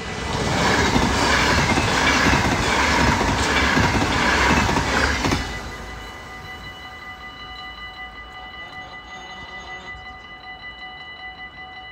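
A yellow NS double-deck electric passenger train passes at speed, with loud rail noise and wheel clatter for about five seconds that then stops fairly suddenly. Level-crossing warning bells ring steadily under the train and go on ringing, pulsing evenly, once it has passed.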